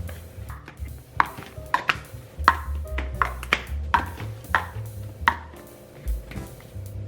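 Background music over about eight sharp clinks and knocks with a short ring after each, of kitchen containers being handled and set down.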